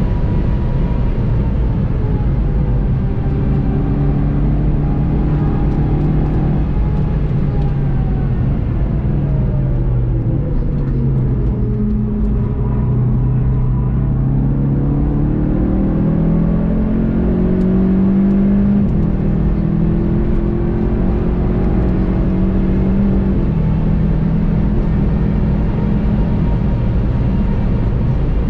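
Onboard sound of a VW Golf 7 GTI TCR's turbocharged four-cylinder engine, with steady road and wind noise. Its note falls over roughly the first twelve seconds as the car brakes hard for a slow corner. It then climbs again under acceleration, stepping down in pitch at upshifts.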